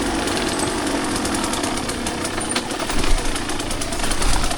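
Two-stroke dirt bike engine running at low revs, a rapid steady chugging with a dense run of fine ticks over a noisy wash.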